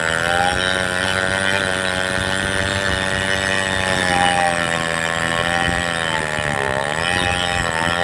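Two-stroke petrol chainsaw running at high revs with a steady engine note. Its pitch dips and recovers near the end.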